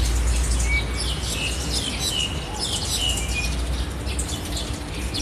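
Small birds chirping repeatedly in quick short notes, over a low steady rumble.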